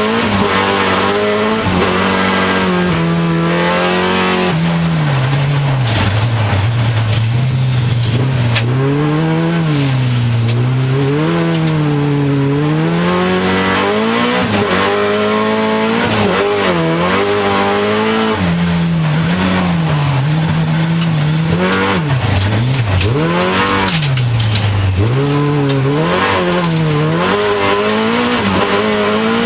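Hyundai Accent rallycross car's engine heard from inside the stripped cabin, running hard under load. Its revs climb and fall over and over, dropping sharply a few times near the end.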